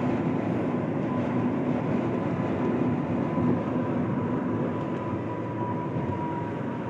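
Steady road and engine rumble heard from inside a moving car, with a faint steady whine over it.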